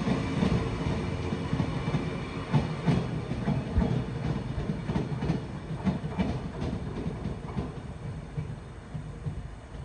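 Caledonian Sleeper train running past on the rails, its wheels clacking over rail joints, the sound growing fainter as it moves away.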